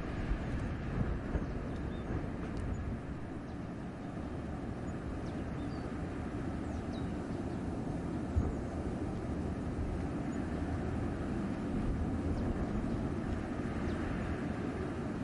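Wind blowing through a winter forest: a steady low rushing that swells and eases slightly.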